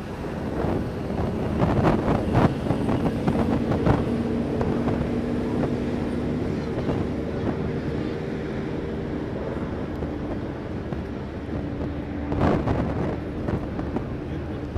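Ship horns sounding together in several held tones for about ten seconds, over wind on the microphone and a low engine rumble, with a few knocks near the start and one near the end.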